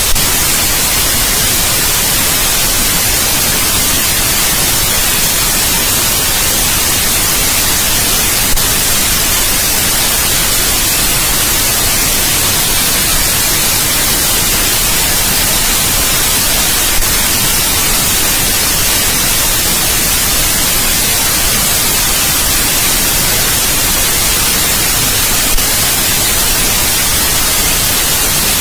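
Steady white noise: an even, unbroken hiss that is brightest in the treble, with a faint tick about every eight and a half seconds.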